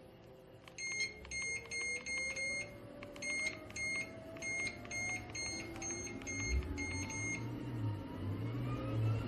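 Walking-pad treadmill's control panel beeping a dozen or so times, about two a second, as the speed is stepped up, while the belt motor's whine rises steadily in pitch as the belt speeds up. A low running hum grows louder near the end.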